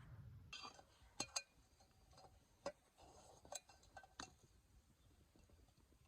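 A few faint, scattered clinks and taps of tableware, dishes or utensils being handled.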